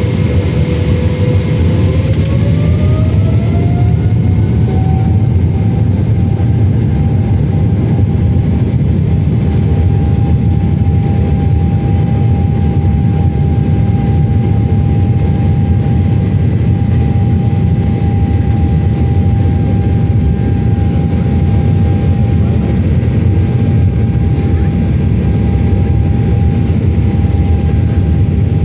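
Boeing 777-300ER's GE90 jet engines heard from inside the cabin: a loud, steady rumble with a whine that rises in pitch a few seconds in and then holds level as the engines spool up.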